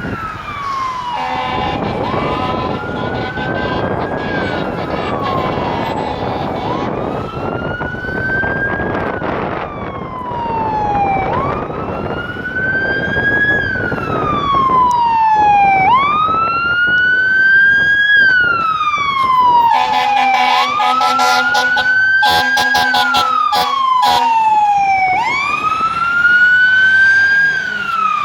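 Fire truck siren on a slow wail, its pitch rising and falling about every four to five seconds over the truck's engine and road noise. A horn sounds for several seconds a little after the middle.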